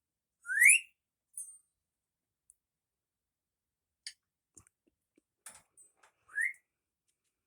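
Pet parrot giving two short rising whistles, one about half a second in and a weaker one near the end, with a few faint clicks between.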